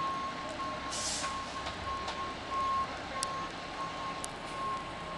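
Fire engine's backup alarm beeping about twice a second as the rig reverses, over its engine running low, with a short hiss about a second in.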